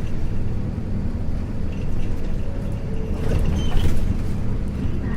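Isuzu 6QB2 diesel engine of a 1994 Isuzu U-LV224N bus running under way, heard from inside the cabin as a steady low drone with road noise. A brief louder noise comes about three and a half seconds in.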